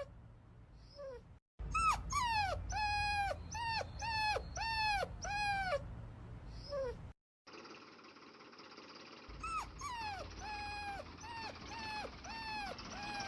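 Puppy whining: runs of short, high whines at about two a second, each dropping in pitch at its end. The runs are cut twice by a moment of dead silence.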